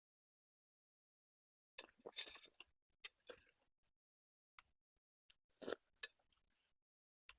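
Close-miked eating sounds: short bouts of chewing and wet mouth smacks, with small clicks, as someone eats meatball soup. The bouts come about two seconds in, again around three seconds, and near six seconds.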